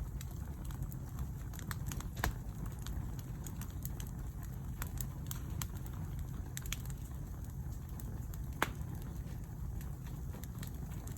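Campfire burning, crackling with many small scattered snaps and two louder pops, one about two seconds in and one late, over a steady low rumble.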